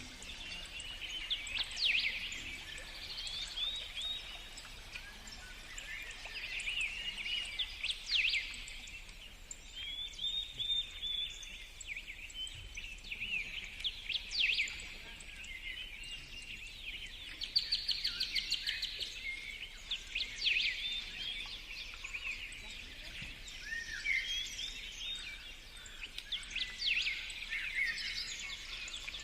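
Several songbirds singing, short chirps and warbled phrases overlapping one another, with a quick run of rapidly repeated notes about two-thirds of the way through.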